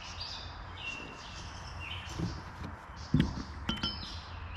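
Birds chirping intermittently in the background over a steady low rumble, with a single soft thump about three seconds in.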